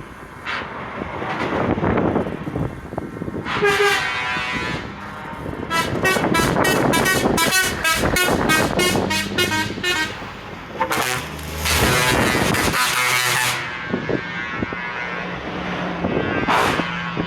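Trucks passing with diesel engines running and air horns blowing: several long blasts and, in the middle, a rapid string of short toots.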